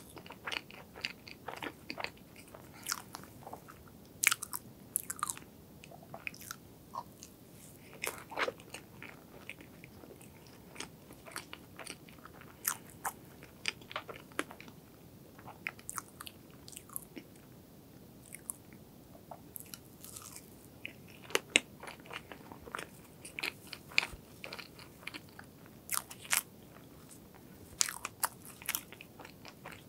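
Close-miked eating sounds of soft strawberry crepe cake with cream: wet chewing and mouth smacks, in many irregular short clicks.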